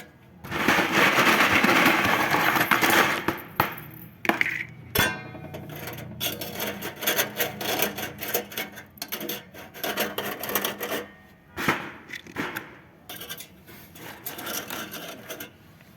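Hand work on a car muffler's metal parts: a burst of rustling and scraping in the first few seconds, then a run of light knocks, scrapes and rubbing of metal pieces.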